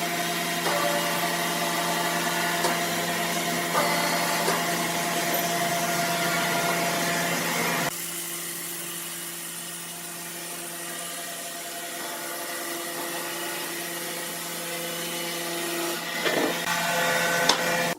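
Sawmill machinery running with a steady motor hum. It gets quieter about eight seconds in, and there are a few knocks near the end.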